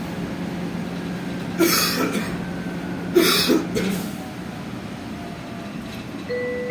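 Steady hum inside an electric bus's passenger cabin, with a low motor tone that fades out about four seconds in as the bus slows. Someone coughs twice, loudly. Near the end the onboard announcement chime starts sounding.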